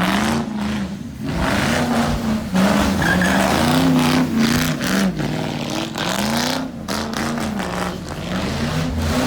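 A car engine revving hard, its pitch rising and falling over and over, with tyres screeching and skidding as the car is driven in a stunt.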